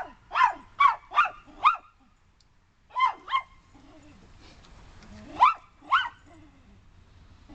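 Poodle barking in short, high yips: a quick run of about five, then two pairs of barks with pauses between.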